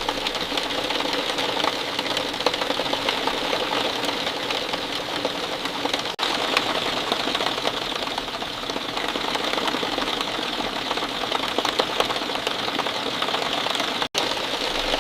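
Steady rain falling, a dense hiss of countless small drops pattering, with two momentary dropouts about six seconds in and near the end.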